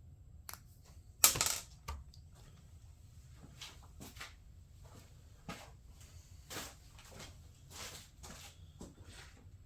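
Plastic trim parts and small hardware being handled: scattered sharp clicks and knocks, about ten in all, the loudest a little over a second in.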